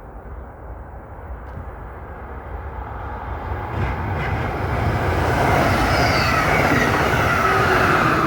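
Passing train on an electrified mainline approaching and growing steadily louder, with a rumble and high whining tones that come in over the last few seconds.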